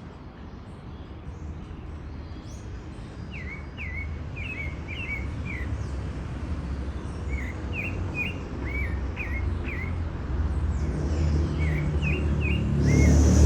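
A small songbird singing three short phrases of quick, swooping chirped notes, over a steady low rumble. A louder noise starts just at the end.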